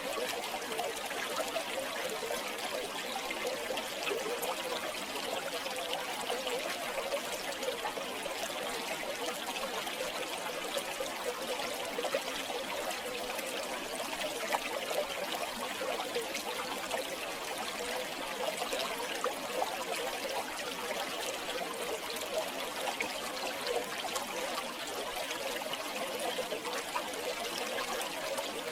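River water flowing and trickling steadily over stones, with a constant babble and many small splashes.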